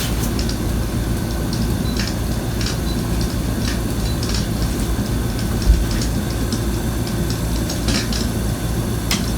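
Train running on rails: a steady low rumble with irregular sharp clacks of wheels over rail joints.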